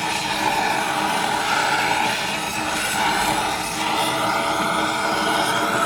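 Steady mechanical whirring noise with a wavering whine.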